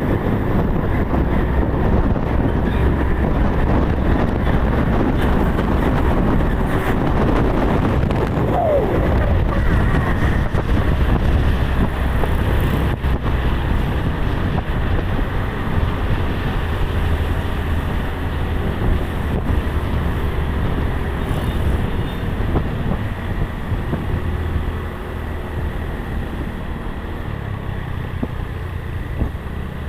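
Heavy truck running on the road: a steady low engine rumble with road and wind noise, easing off a little near the end.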